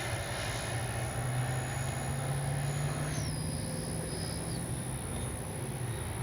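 An RC jet's 80mm electric ducted fan running in flight with landing flaps down on approach, a steady whooshing hum with a faint high whine that drops in pitch about three seconds in as the throttle comes back.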